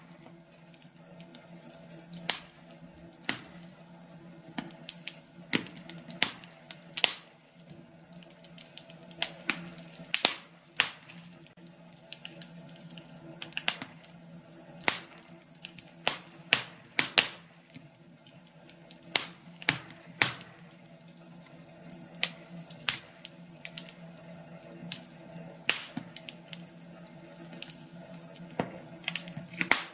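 Wood fire crackling: irregular sharp pops and snaps from the burning logs, sometimes several in quick succession, over a soft steady background.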